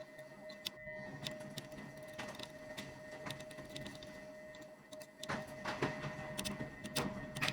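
Light scattered clicks and taps of small tools on a phone during a repair, over a steady electrical hum. A low rumbling noise joins about five seconds in.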